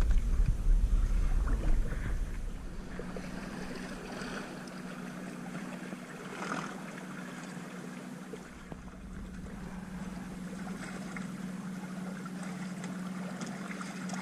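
Small electric outboard motor pushing a loaded canoe, running with a steady hum over the wash of water. A loud low rumble fills the first two seconds.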